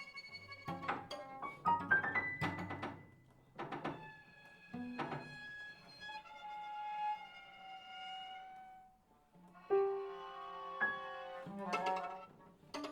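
Piano trio of piano, violin and cello playing contemporary chamber music. A run of sharp, struck attacks opens it, then long held bowed notes follow. After a brief near-pause about nine seconds in, a held low note sounds and sharp attacks return near the end.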